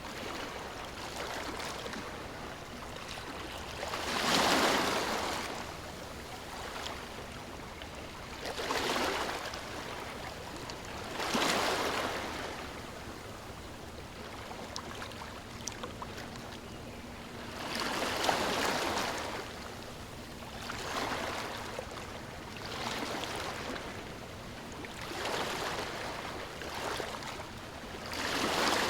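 Sea waves washing in, one swell of surf every few seconds over a steady background hiss of water.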